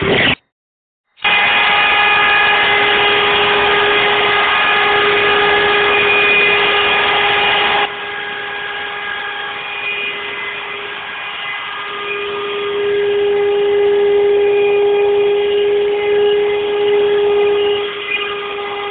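CNC machine running under G-code control: a steady, whining machine tone made of several held pitches over a rough mechanical noise. The sound cuts out for about a second just after the start, and it becomes quieter with a changed pitch mix about 8 seconds in.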